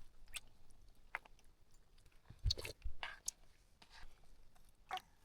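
Sparse small clicks and knocks of people eating a meal, with chewing.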